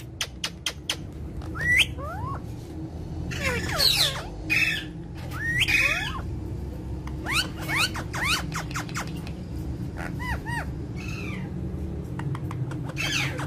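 Indian ringneck parakeet calling in a string of short whistled chirps and clicks that glide up and down in pitch, in clusters with short pauses, over a steady low hum.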